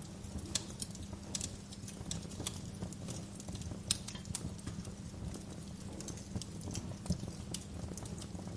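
Wood fire burning in a fireplace: a steady low rumble of flames with frequent irregular crackles and pops, the sharpest pop about four seconds in.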